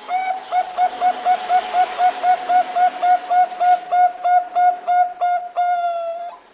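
Zebra dove (Bangkok perkutut) calling: a fast run of short, clipped notes, about four a second, ending in one longer drawn-out note that dips slightly just after six seconds in.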